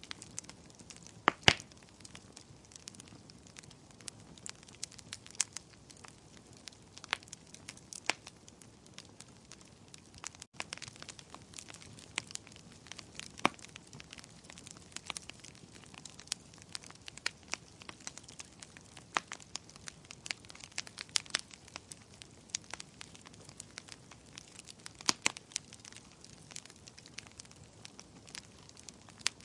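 Wood campfire crackling: irregular sharp pops and snaps over a faint steady hiss, with the loudest pair of pops about a second and a half in.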